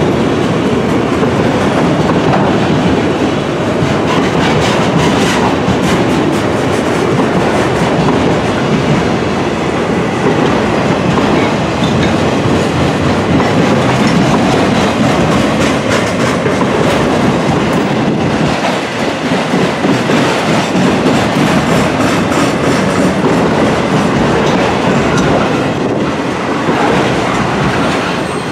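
Auto rack freight cars rolling past, a steady, loud rumble of steel wheels on rail with repeated clickety-clack over the rail joints.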